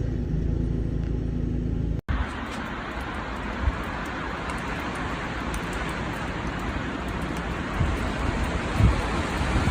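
Road vehicle noise: a low, steady engine rumble, then after a sudden cut about two seconds in, a steady hiss with a few dull thumps.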